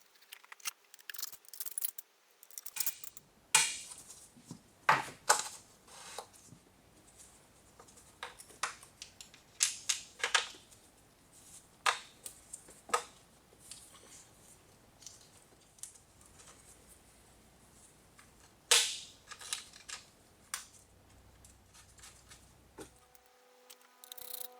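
Sharp metallic clicks and knocks of hand tools at irregular intervals, a few of them loud, during work on the engine.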